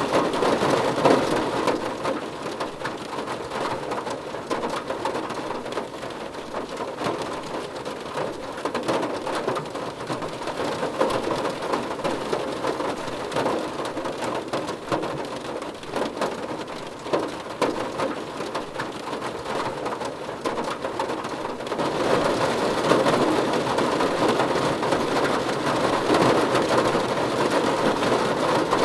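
Steady rain falling on a surface, a continuous hiss with many individual drops ticking through it. It gets abruptly louder about three-quarters of the way through.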